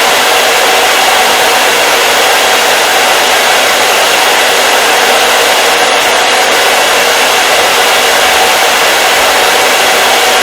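Hair dryer running steadily: a loud, unchanging rush of blown air with a faint steady tone in it and little bass.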